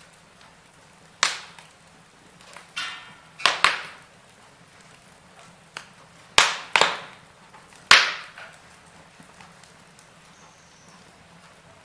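Wood fire in a fireplace crackling, with about six sharp, loud pops spread through the quiet stretches, two of them close together near the middle. There is a short hiss before one of the pops.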